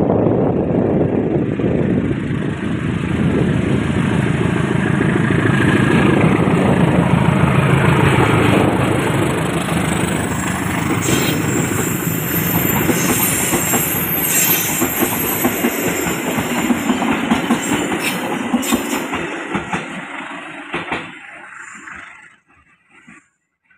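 A train passing close by, the wheels clattering over the rail joints. The sound dies away about twenty seconds in.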